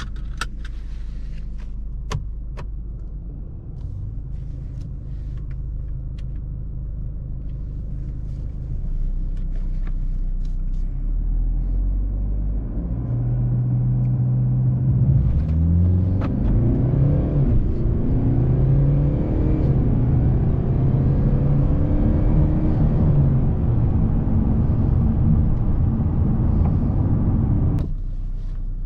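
Mercedes CLS 300d's 2.0-litre four-cylinder turbo diesel heard from inside the cabin, running low and steady with a few clicks early on. About halfway through it pulls harder, its pitch rising and dropping through several gear changes, then settles into a steadier run.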